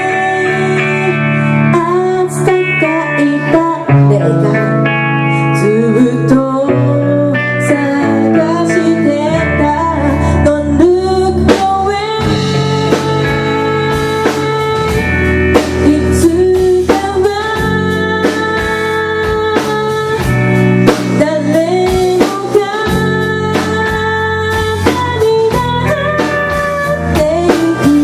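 Live rock band music: a guitar-led passage with bending notes over bass, with the drums striking more densely from about halfway through.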